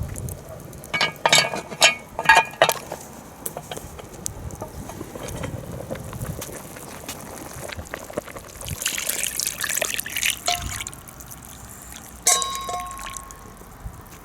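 Liquid pouring and splashing, with a few sharp metal clinks early on and a ringing metallic clank near the end.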